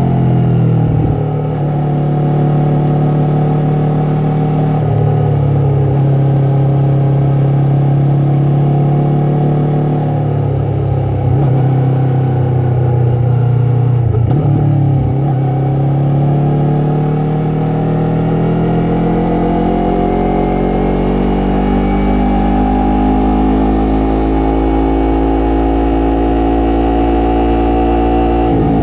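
Yamaha MT-03's parallel-twin engine and exhaust under way, the revs climbing and dropping sharply at gear changes about every five seconds, then climbing slowly and steadily for the second half.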